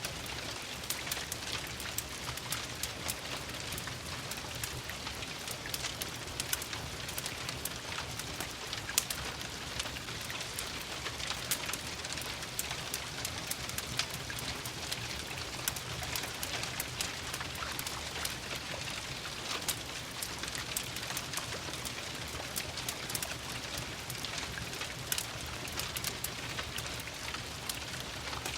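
Steady rain mixed with a crackling wood fire: an even patter and hiss, scattered sharp pops and snaps, and a low rumble underneath.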